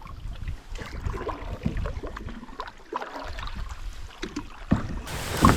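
Scattered hollow knocks and scrapes of a canoe being pushed off and boarded, with wind rumbling on the microphone and a louder knock near the end.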